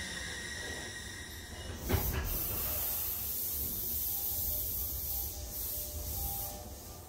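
Odakyu 3000-series electric commuter train coming to a stop: the whine of its motors fades out, and about two seconds in a sudden release of compressed air gives way to a steady hiss.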